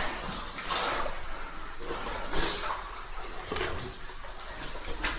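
Boots squelching and splashing through wet mud and water, several irregular steps.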